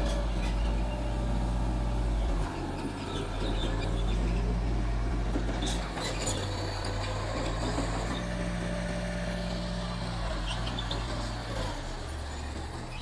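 Mitsubishi BD2G bulldozer's diesel engine running, its pitch and load shifting a few times as the machine works. A couple of sharp clanks about six seconds in.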